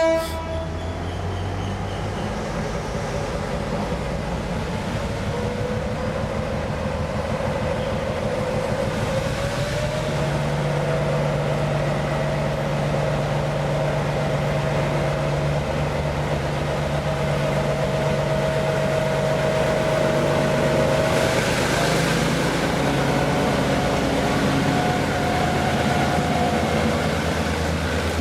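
GM G12 diesel-electric locomotive running under load as it hauls a train, a steady engine drone. Its note climbs in pitch about five to ten seconds in and then holds steady, growing slowly louder.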